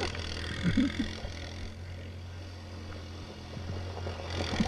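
Motorcycle engine idling steadily in the background, with a brief pitched vocal sound about a second in.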